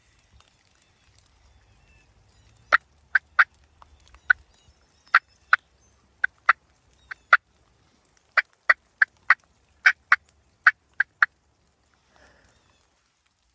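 Wild turkey calling: a string of about twenty short, sharp clucks spaced unevenly a fraction of a second apart, starting about three seconds in and stopping a couple of seconds before the end.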